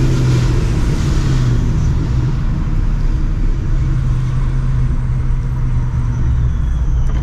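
Supercharged Ford 4.6 L 2V V8 in a New Edge Mustang GT running steadily under way through its Borla ATAK cat-back exhaust, a loud, even low drone.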